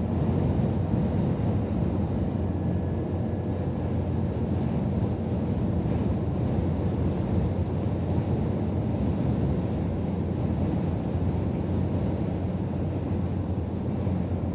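Scania R500 truck on the move, its 13-litre six-cylinder diesel and the road noise making a steady low rumble with no change in pace.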